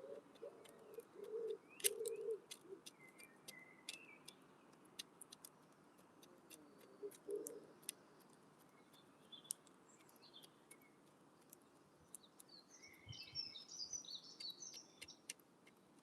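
Wood pigeon cooing for the first couple of seconds and again briefly about 7 seconds in, over repeated sharp taps of a beak pecking at the window feeder. Small birds chirp faintly at a higher pitch, most busily near the end.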